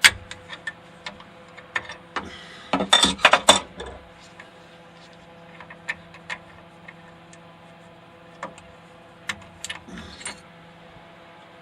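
Metal tools clicking and clinking against a CNC router's spindle and collet as the cutting bit is changed, with a burst of clattering about three seconds in and scattered single clicks after it. A steady low hum runs underneath.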